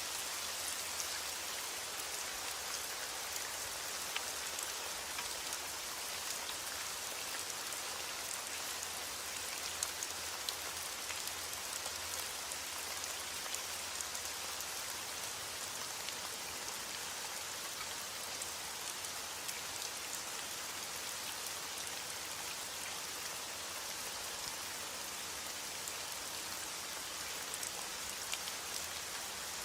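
Steady rain falling: a dense, even hiss with scattered sharper ticks of individual drops.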